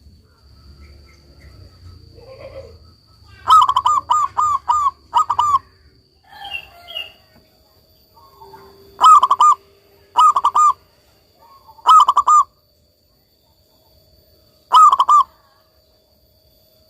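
Zebra dove (perkutut) singing: a quick run of five cooing notes about three and a half seconds in, then a softer call and four shorter note groups spaced a couple of seconds apart.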